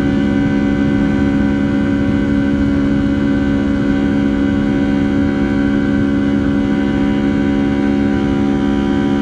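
Rolls-Royce turbofan engines of a Boeing 757-200 running at steady power, heard inside the cabin: a loud, even drone with several held tones that do not change in pitch.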